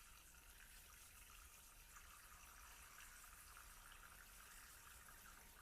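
Near silence: room tone, a faint steady hiss with a low hum underneath.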